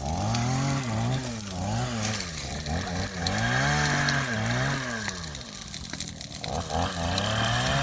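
Chainsaw engine revving up and down over and over, its pitch rising and falling about once a second.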